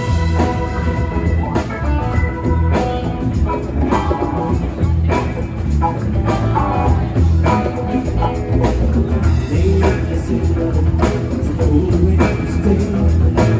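Live rock band playing an instrumental passage, with drum kit, bass and guitar over a steady beat.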